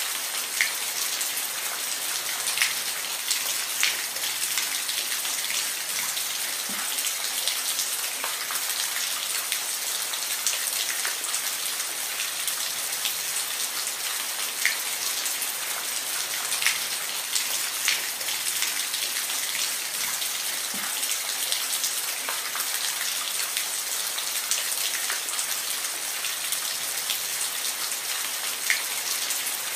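Steady rain falling, a continuous hiss with individual drops ticking sharply on a surface every second or so.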